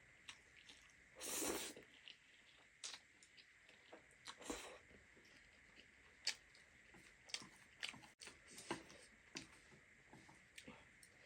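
Close, faint eating sounds: chewing and scattered small mouth clicks, with two louder, longer rushes of noise, one about a second and a half in and one about four and a half seconds in.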